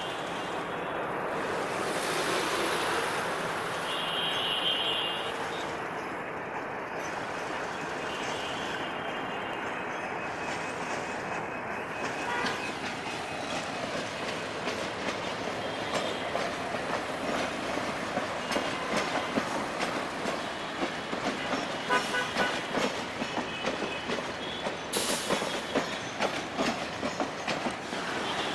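Intercity passenger train rolling slowly out of a station, its wheels rumbling and clicking over rail joints and points. The clicks come faster and louder from about halfway through as the train picks up speed.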